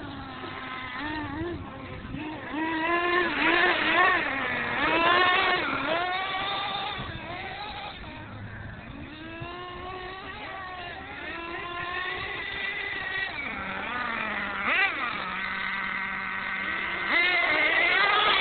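Small nitro glow-fuel engines of R/C monster trucks revving up and down as they drive, with a high buzzing pitch that rises and falls repeatedly. The pitch holds steady for a couple of seconds near the end before climbing again.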